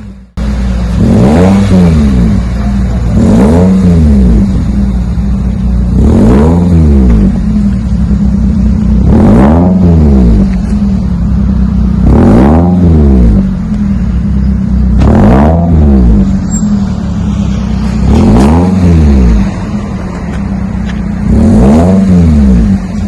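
2001 Toyota Celica GT's 1.8-litre four-cylinder engine blipped from idle through a new axle-back exhaust with a Magnapack muffler, about eight times. Each rev rises and falls back in pitch, roughly every three seconds, with a steady idle between them.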